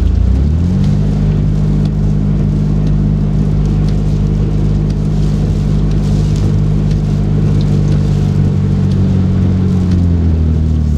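Car engine and road noise heard from inside the cabin: the engine note rises in the first second as the car speeds up, holds steady, then drops back near the end.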